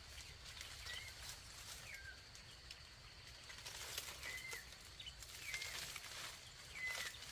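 A bird giving short chirps over and over, five or six in all, a second or so apart, over a faint steady high-pitched tone and a few faint clicks.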